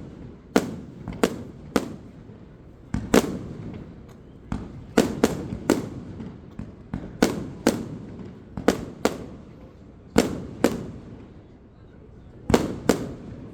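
Fireworks display: aerial shells bursting in a rapid, irregular series of about twenty sharp bangs, each followed by a fading echo, with a brief lull shortly before the end.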